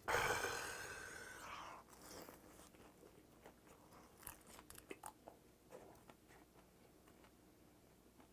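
A breathy exhale in the first second or two, then faint crunching and chewing as a whole grilled gizzard shad is bitten into and eaten bones and all.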